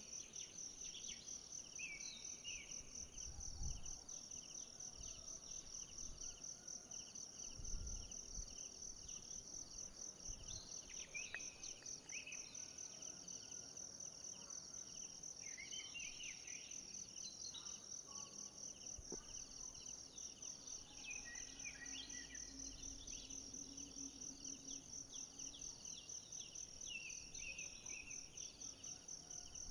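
Forest insects, crickets or cicadas, keep up a steady, fast-pulsing high trill, with scattered short high chirping calls over it. A few low thumps come through, the loudest about 8 seconds in.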